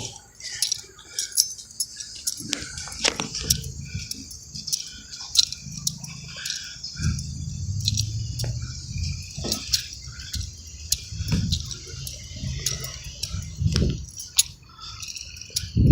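Keys jangling, with many small irregular clicks throughout and an uneven low rumble underneath.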